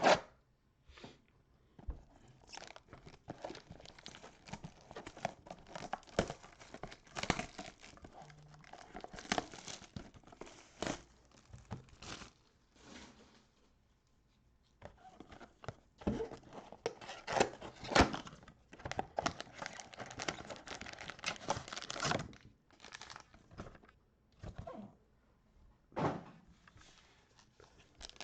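Plastic wrapping of a trading-card box and its card packs being torn open and crinkled, in irregular rustling bursts with a short pause about halfway through.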